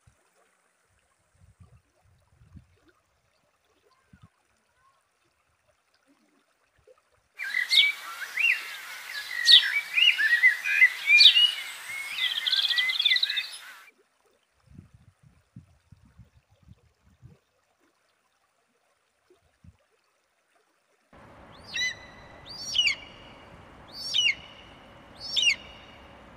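Birds chirping in a dense chorus that cuts in abruptly about seven seconds in and cuts off just as suddenly about six seconds later. Near the end, four separate whistled bird calls, each sweeping up and down, sound over a faint steady hum.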